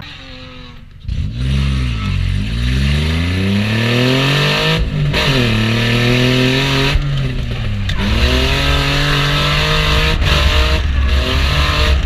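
Infiniti G35's V6 engine revving hard through a drift run. It comes in sharply about a second in, and its pitch climbs and falls again and again, with abrupt lifts off the throttle several times.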